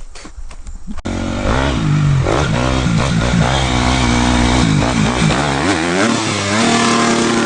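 Dirt bike engine starting abruptly about a second in and revving, its pitch rising and falling several times as the throttle is worked, then held steady at high revs near the end.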